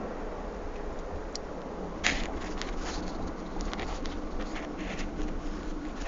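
Steady low road and engine noise heard inside a moving car, with scattered clicks and rustles from about two seconds in.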